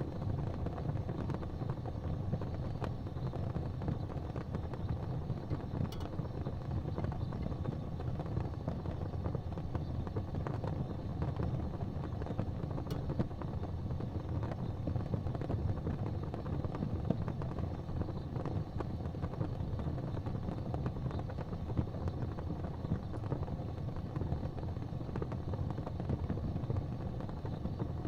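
Fireplace fire burning with a steady low rumble and a few faint, sparse crackles.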